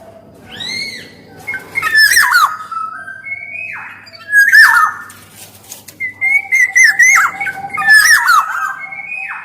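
Black-naped oriole (kepodang) singing: a string of loud whistled phrases with swooping, bending notes mixed with harsher scratchy notes. The phrases come in bursts every second or so, over a faint steady hum.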